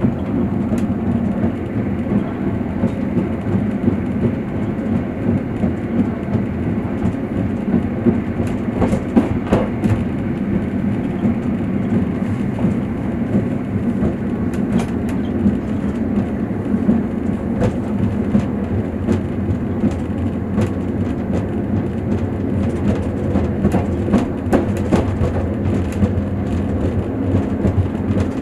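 Passenger train running, heard from inside the carriage: a steady low rumble with irregular clicks and knocks of the wheels and rattling of the car.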